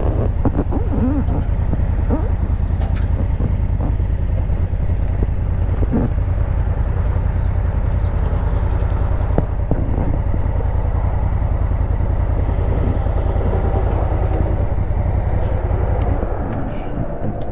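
Honda Africa Twin CRF1000L's parallel-twin engine running steadily under way. The engine note eases off near the end as the bike slows.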